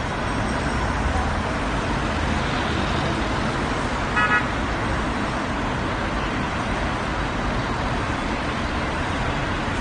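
Steady road traffic noise with a low engine rumble, and one short car horn toot about four seconds in.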